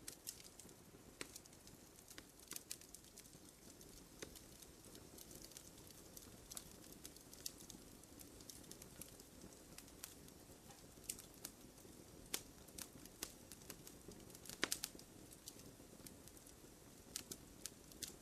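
Wood fire crackling softly: irregular small pops and snaps, a few sharper ones, over a faint steady hiss of the flames.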